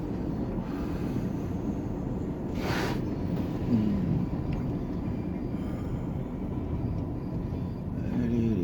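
Truck driving along a street, a steady low rumble of engine and tyres from inside the cab, with a brief hiss about three seconds in.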